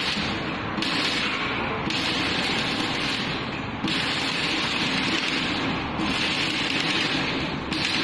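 Exhaust pipe being welded into a BMW E36's exhaust in place of the rear muffler: an even crackling hiss in several runs, each a second or two long, starting and stopping abruptly with short breaks between.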